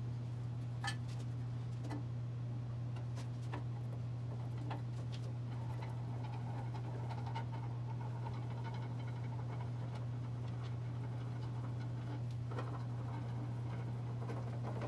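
Steady low hum with scattered light clicks and taps of small metal mill parts being handled and fitted during reassembly.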